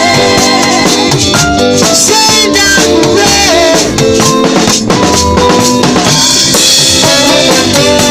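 A reggae band playing, with the drum kit's snare and bass drum to the fore under held, wavering melody notes.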